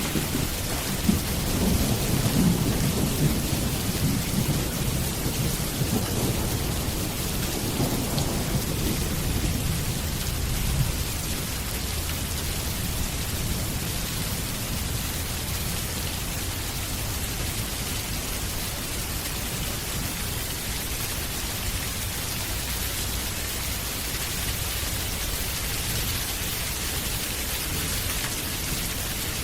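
Steady rain falling, with a long low rumble of thunder through roughly the first ten seconds that fades away, leaving the rain alone.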